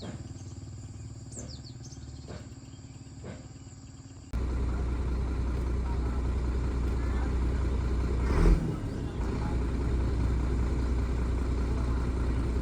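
A low engine hum with a click about once a second and a few bird chirps, then a sudden cut to a large vehicle's engine running with a loud, steady low rumble. There is one louder thump about halfway through.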